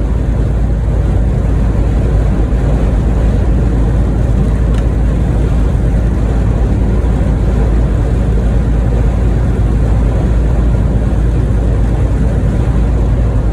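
Steady drone of a semi truck's engine and road noise, heard inside the cab while driving.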